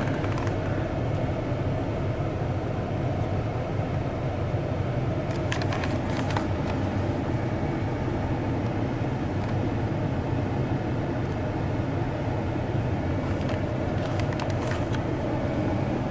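Pickup truck's engine idling, heard from inside the closed cab as a steady low rumble. A few brief clicks or rattles come about a third of the way in and again near the end.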